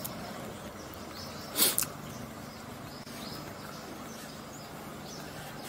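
Outdoor ambience of faint bird chirps over a steady background hiss, with one brief loud burst of noise about one and a half seconds in.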